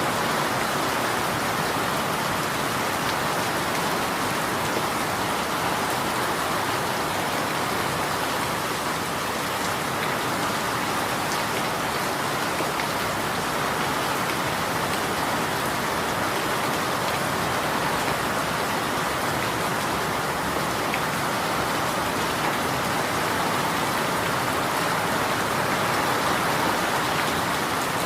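Steady rain falling and pattering on a surface, an even wash of noise with faint scattered drop ticks and no change in intensity.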